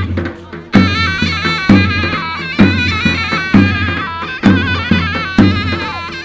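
Turkish folk dance music: a shrill, ornamented reed-pipe melody over a large drum beating about one heavy stroke a second, with lighter strokes in between.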